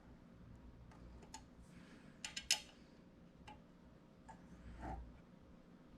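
Scattered light clicks and small metallic taps from plotter-stand parts and screws being handled during hand assembly. A short cluster of sharper clicks comes about two and a half seconds in.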